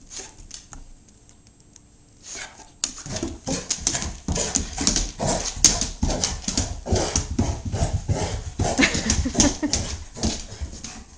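A dog panting fast and close, an even run of quick breaths that starts about three seconds in after a few faint sounds.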